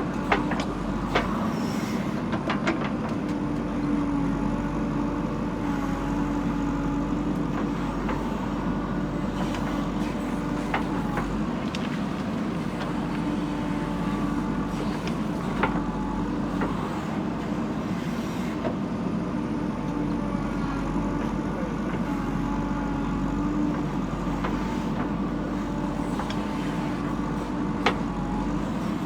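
JCB backhoe loader's diesel engine running steadily under working load, with a few sharp clanks scattered through.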